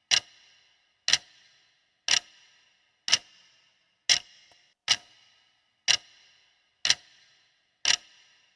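Quiz countdown timer's clock-tick sound effect, ticking about once a second. Each tick is a sharp click with a short ringing tail.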